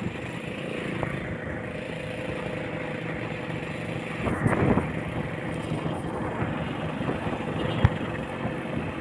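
Yamaha RX-King 135cc two-stroke motorcycle engine running steadily at an easy cruise while being ridden. The sound swells briefly about halfway through, and a sharp click comes near the end.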